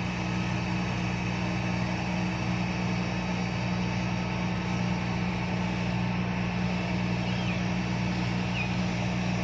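Diesel engine of an Epiroc DM45 blasthole drill rig running steadily at a constant speed, a low, even drone with a hiss above it.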